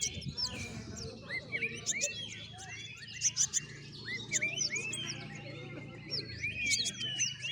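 A group of olive-backed sunbirds (kolibri ninja) chirping together: many short, high-pitched hooked calls and quick trills overlapping without pause.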